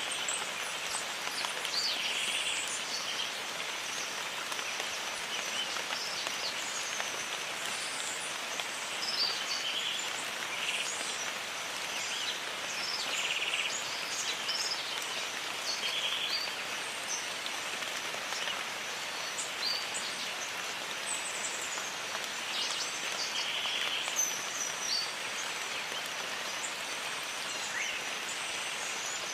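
Steady rain falling in a jungle, an even hiss, with many short high bird chirps scattered throughout and a thin steady high tone underneath.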